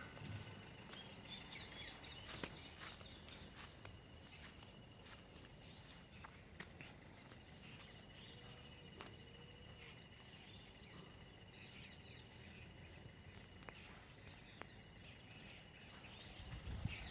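Faint countryside ambience: scattered bird chirps over a steady high insect trill, which breaks off briefly about seven seconds in. A low rumble comes in near the end.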